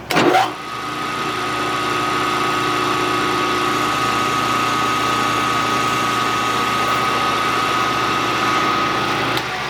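Milling machine running steadily with a boring head, cutting a shallow bearing bore, with a steady high whine over a lower hum. It starts with a sharp knock and stops shortly before the end.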